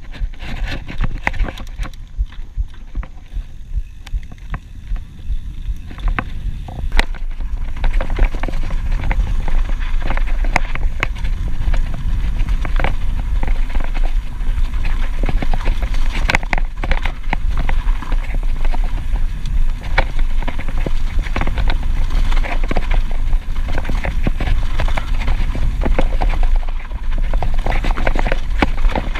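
Mountain bike riding down a dirt trail: tyres on rough ground, with a constant rattle and many sharp knocks from the bike over bumps. A heavy low rumble of wind on the microphone runs underneath, and it all gets louder about seven seconds in.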